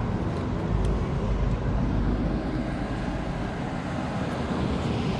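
Steady outdoor background rumble, heaviest from about one to two seconds in, with no voices.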